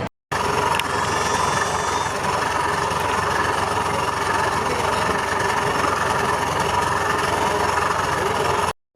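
Speed boat's outboard engine running steadily, cut off by brief dropouts at the very start and just before the end.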